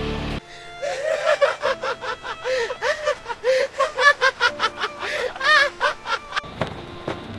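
A person laughing in a long run of short, high-pitched laughs, which stops about a second before the end.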